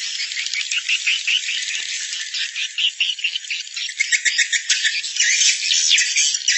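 Recorded edible-nest swiftlet (walet) calls used as a roosting lure for swiftlet houses: a dense, unbroken twittering chatter of many overlapping rapid chirps, high-pitched with no low sound, getting busier and louder about two-thirds of the way through.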